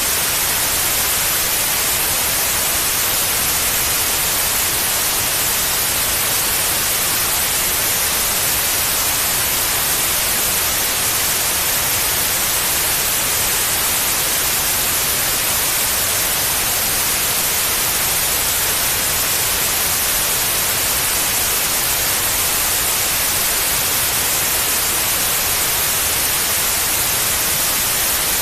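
Steady white noise: a constant, even hiss with most of its energy in the treble, played as a sleep sound for babies.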